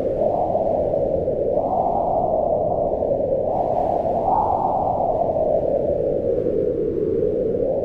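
Strong mountain wind howling, a low moaning rush that swells and eases with gusts, rising in pitch around two seconds in and again past four seconds.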